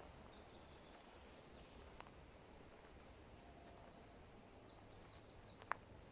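Faint forest ambience with distant small birds calling: a short high call, then a quick run of descending chirps in the middle. Two sharp clicks break in, the louder one near the end.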